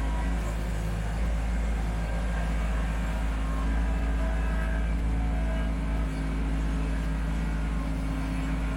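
Kubota B2650 tractor's three-cylinder diesel engine running steadily under throttle, a constant deep rumble.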